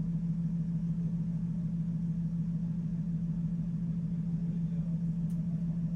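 A steady low machine hum that holds one even pitch with no change.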